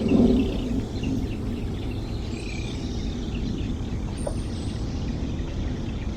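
Small birds chirping, with a quick run of short chirps in the first second and a longer call a couple of seconds in, over a steady low rumble.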